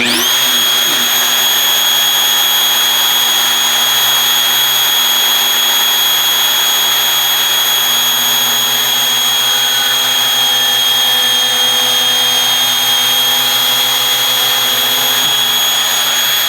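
A high-speed power tool spins up quickly to a steady high whine and runs at a constant speed, driving a bit through plywood.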